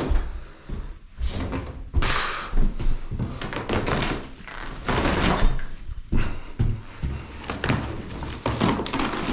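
Irregular thuds and knocks in a small room, with scraping and rustling between them.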